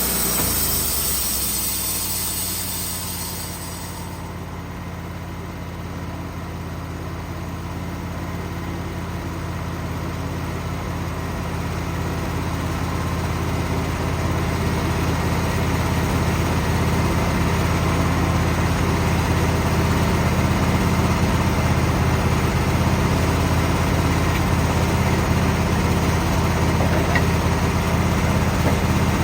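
Wood-Mizer portable band sawmill's engine running steadily. The band blade's cutting hiss dies away over the first few seconds, and the engine then grows gradually louder over the next fifteen seconds or so.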